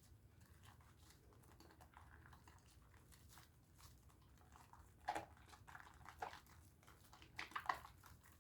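Bar of Dove soap being lathered between wet hands: faint, soft, wet clicking and squishing, with a few louder wet smacks past the middle and near the end.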